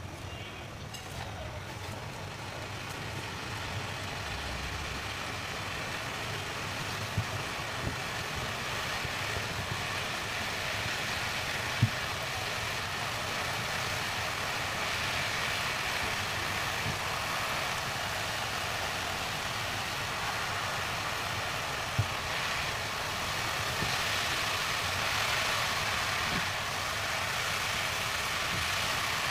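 Lachha semai vermicelli sizzling steadily as it fries in a nonstick pan while being stirred with a wooden spatula. A few sharp knocks of the spatula against the pan stand out, the clearest about a third and three quarters of the way through.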